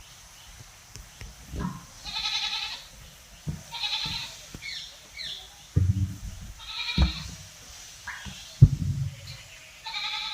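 Goat bleating: four short, high, quavering calls a couple of seconds apart. A few dull low thumps come in the second half.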